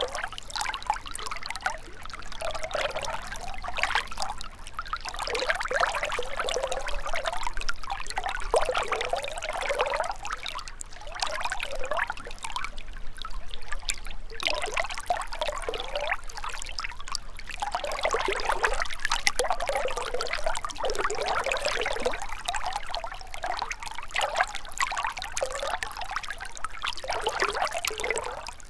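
Water of a small river or stream trickling and splashing over stones, a continuous babble that swells and eases unevenly.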